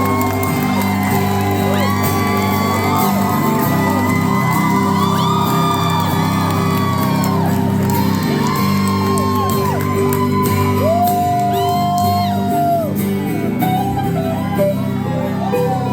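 Live indie-folk rock band playing a passage without vocals: held lead guitar notes slide up and down over steady bass and chords. Audience members shout and whoop over the music.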